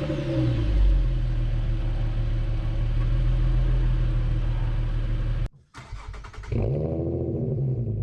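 Infiniti Q50 3.7 V6 (VQ37VHR) idling on its stock exhaust just after a start, its revs easing down from the start-up flare. About five and a half seconds in it cuts off abruptly, the starter cranks again and the engine catches with a flare, then settles into idle through the custom X-pipe and twin Flowmaster FX muffler exhaust.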